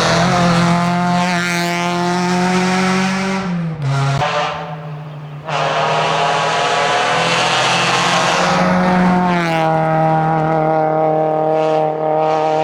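Renault Clio 16V's four-cylinder engine held at high revs under full load, one steady note. A few seconds in the pitch drops and the sound fades, then it cuts back in suddenly at full revs. The note climbs a little and dips again in the second half.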